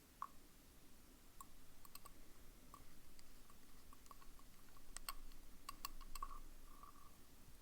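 Faint, irregular small clicks and light taps from handling a fountain pen and its piston converter while it is filled from a bottle of ink, with a quick cluster of clicks about five to six seconds in.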